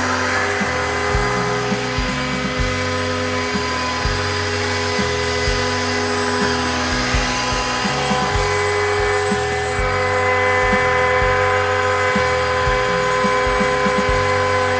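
DIY CNC router at work: the spindle gives a steady high whine while the gantry motors move in short stepped runs, changing pitch every fraction of a second. Background music plays with it.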